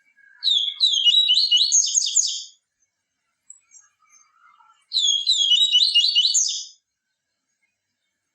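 Papa-capim seedeater singing its 'tui tui viviti' song: two phrases of fast, high, repeated notes, each about two seconds long, the second starting about five seconds in.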